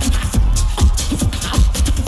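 Tag-team beatboxing: two beatboxers making a fast, steady techno-style beat by mouth, with deep kicks that drop in pitch and sharp snares and hi-hats between them.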